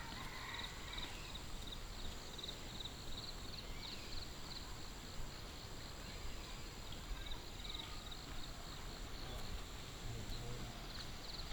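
Low, steady outdoor background noise with trains of high-pitched chirps repeating throughout.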